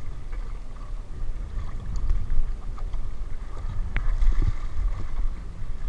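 A loud, uneven low rumble, with one sharp click about four seconds in.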